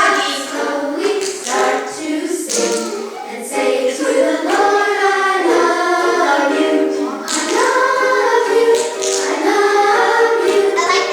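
A song with a choir of voices singing over music.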